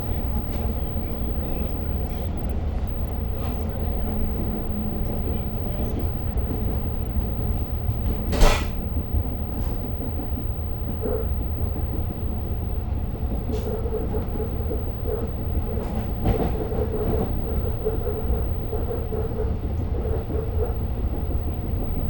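Inside a diesel-hauled Long Island Rail Road passenger coach running along the track: a steady low rumble with one sharp loud clank about eight seconds in and a few lighter knocks later. A faint wavering tone comes and goes in the second half.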